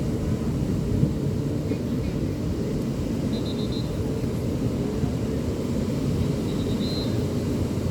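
Beach ambience: a steady low rumble of surf with indistinct distant voices. Two short high chirps sound, one about halfway through and one near the end.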